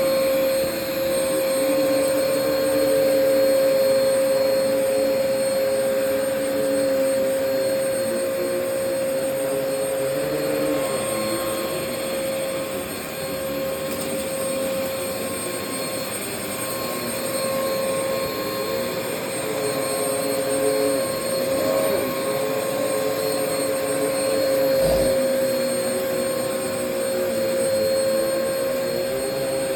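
Vacuum cleaner running on carpet: a steady motor whine with one strong held tone, and a lower airflow sound that rises and falls as it is pushed back and forth. There is a brief low knock about 25 seconds in.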